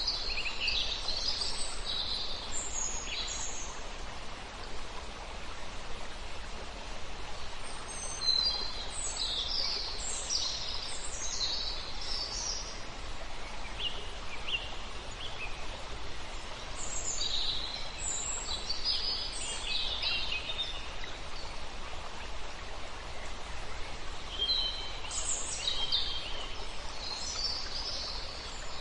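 Songbirds singing in several bouts of quick, high chirps and trills over the steady rush of a river.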